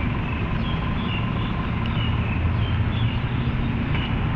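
Steady low rumble of city traffic, with short high chirps of birds repeating over it.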